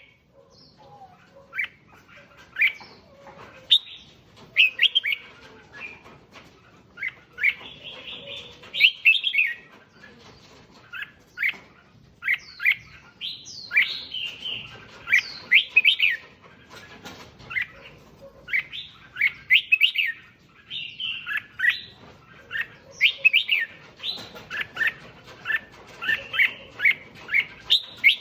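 Red-whiskered bulbul singing: short, quick, warbled whistled phrases, repeated every second or two.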